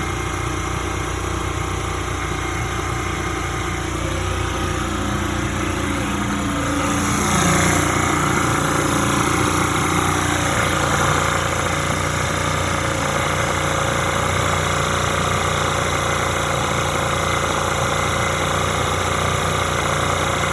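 Two-stroke engine running steadily; about seven seconds in the revs rise and it gets louder, then holds at the higher speed. It is running rich with a lot of oil in it, after its leaking exhaust plates were sealed.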